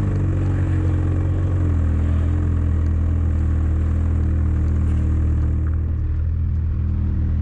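Engine idling steadily, its pitch easing slightly lower in the first second or two.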